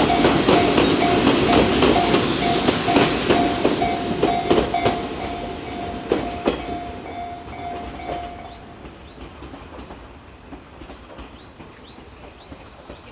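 Former Eidan 3000-series electric train passing over a level crossing, its wheels clacking over the rail joints and fading as it pulls away. The crossing's warning bell rings steadily about twice a second and stops about two thirds of the way through. Faint chirps follow near the end.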